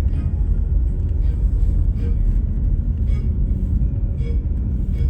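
A car driving, heard as a steady low road and engine rumble.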